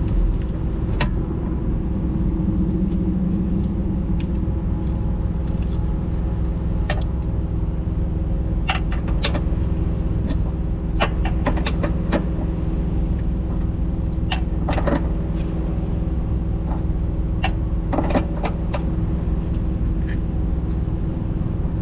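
A diesel engine idling steadily, with scattered light metallic clicks and taps from parts being handled.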